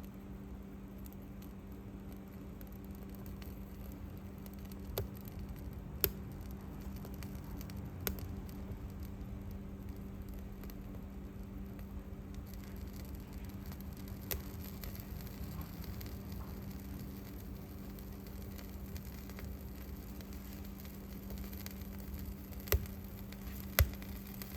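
Wood fire crackling in a fireplace: a low steady hiss with a handful of sharp, separate pops, over a constant low hum.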